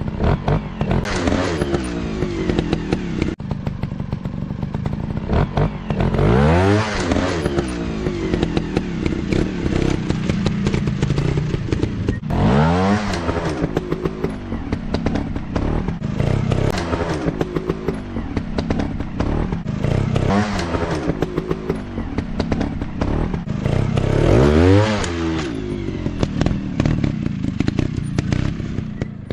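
Off-road dirt bikes running and revving hard. The engine pitch climbs sharply three times, with clattering knocks throughout.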